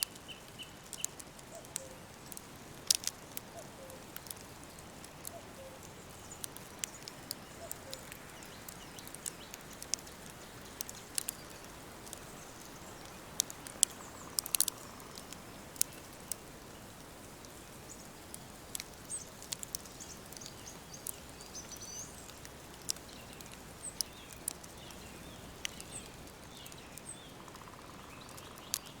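Wood fire crackling with many sharp, irregular pops over a steady soft hiss, while small songbirds chirp in short high phrases at the start and again in the second half.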